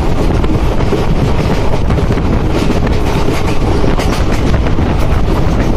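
Mahananda Express passenger train running at speed, heard from a coach window: a steady rumble of the train, with wind buffeting the microphone.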